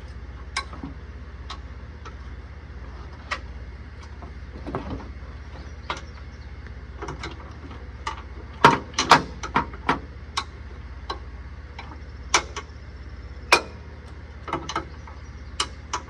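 Irregular metallic clicks and clinks of tools and parts being handled while the loader control valve is taken apart, with a quick cluster of louder clanks about halfway through, over a steady low hum.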